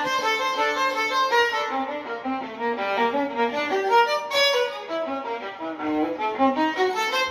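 Violin music, a passacaglia, played as a fast run of short notes over a lower moving line.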